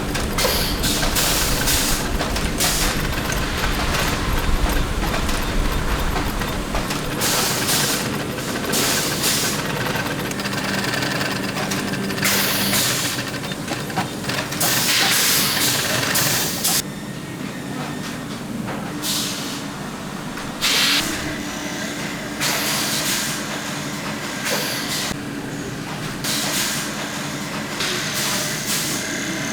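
Bootmaking workshop machinery running with a steady hum, broken by repeated hissing bursts of released air at irregular intervals; a deeper low rumble under it stops about seven seconds in.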